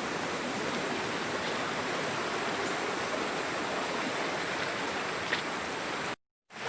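Waterfall rushing: steady, even water noise. It cuts out for about half a second near the end.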